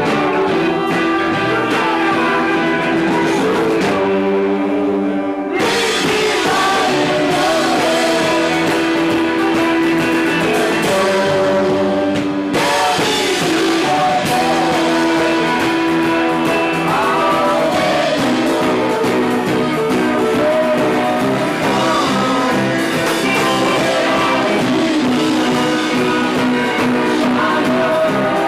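A live rock band playing a song with a singer and guitar. About four seconds in, the band drops back for a moment, then comes back in full.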